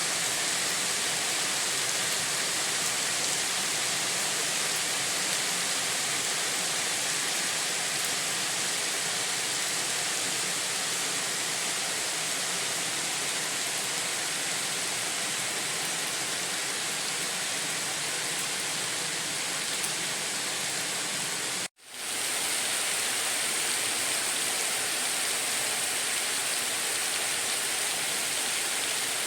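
Steady heavy rain, an even rushing hiss of water. About three-quarters of the way through it cuts out for a split second and fades back in.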